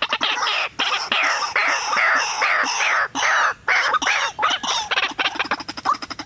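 White-breasted waterhen calling: a fast chatter of repeated croaking notes, with louder harsh notes about twice a second through the middle.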